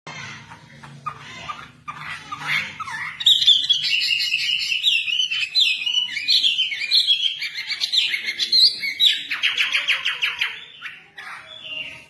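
A wambi songbird singing: soft chirps at first, then from about three seconds in a loud, fast, varied song that ends in a quick run of repeated notes.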